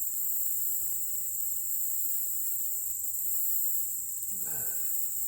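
Steady, high-pitched chorus of insects that runs on without a break.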